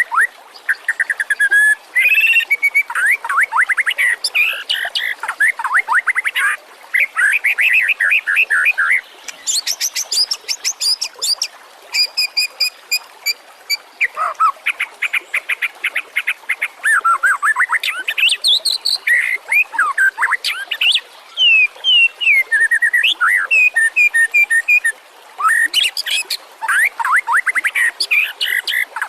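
White-rumped shama (murai batu) singing a long, varied song: fast trills, rapid runs of repeated notes and clear sweeping whistles, phrase after phrase with brief pauses between them.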